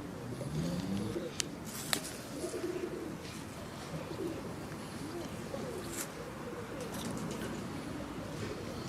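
A bird cooing: low, repeated calls, with a few faint clicks.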